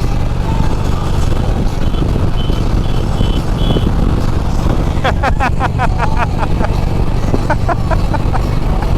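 Harley-Davidson Road Glide motorcycle running at highway speed, a steady engine and wind rumble. A few short high beeps come about two seconds in, and from about five seconds in a quick run of short rising chirps.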